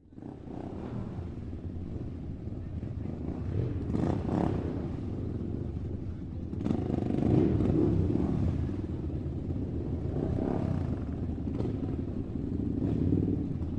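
A motor running steadily with a low rumble, with a few short clattering knocks along the way.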